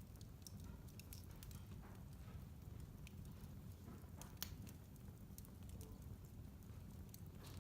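Wood fire burning in a fireplace, crackling with scattered sharp pops over a low steady rumble; the loudest pop comes about four and a half seconds in.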